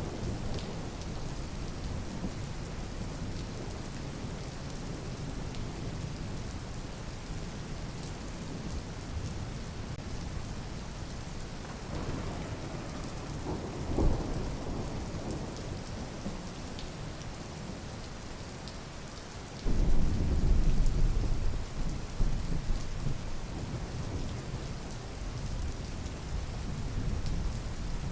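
Steady rain falling, with a brief louder thump about halfway and a sudden deep rumble about two-thirds of the way in that goes on for several seconds.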